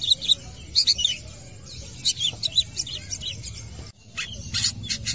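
Long-tailed shrike (cendet) singing in a vigorous, chattering run of quick, sharp chirps and harsh notes in several bursts, with a brief dropout a little before the end.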